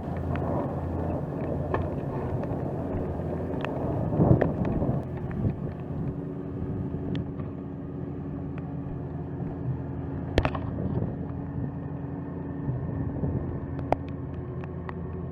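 A motor vehicle's engine running steadily with a low hum, swelling briefly about four seconds in, with a few sharp knocks later on.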